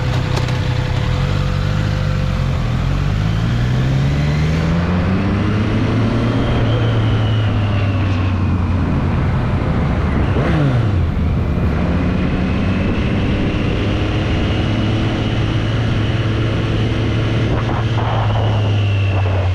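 Triumph Street Triple's three-cylinder engine, heard from the rider's seat, climbing in revs over the first several seconds, dropping sharply around ten seconds in, then running at a steady cruise.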